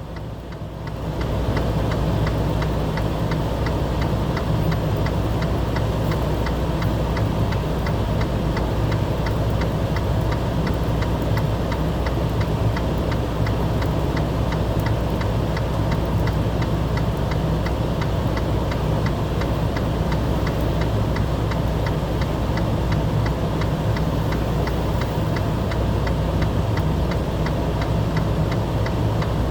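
A car's engine running steadily, heard as a constant low hum, with a fast, even ticking over it.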